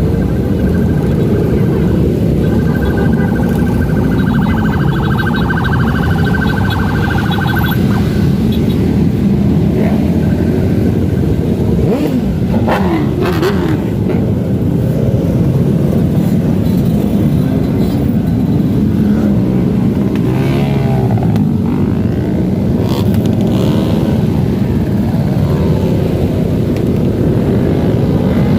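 Dense road noise of cars and motorcycles running past on a city street as a motorcade goes by. A steady horn- or siren-like tone is held from about two to eight seconds in, and short wavering tones come twice later on.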